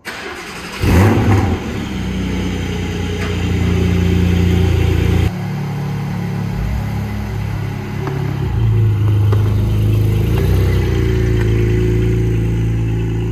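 Porsche 718 Cayman GT4's 4.0-litre flat-six engine starting about a second in with a brief rev flare, then running steadily at idle. Later it runs at low revs with its pitch rising and falling as the car pulls away.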